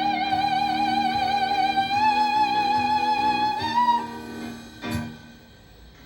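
A woman's voice holds a long, high final note of a show tune with vibrato over steady instrumental accompaniment. The note steps up briefly and stops about four seconds in. A single sharp knock follows about a second later.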